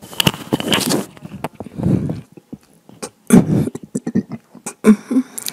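Close-miked mouth sounds of eating juicy pineapple: wet chewing, slurping and lip-smacking, in three or four loud stretches broken by sharp clicks.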